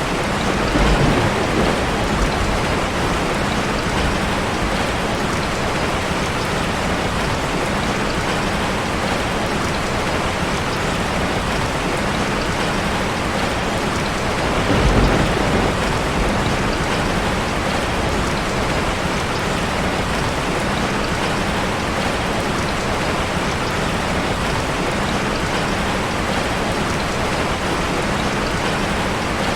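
Steady rush of a waterfall mixed with a crackling fireplace fire, with a brief low swell about fifteen seconds in.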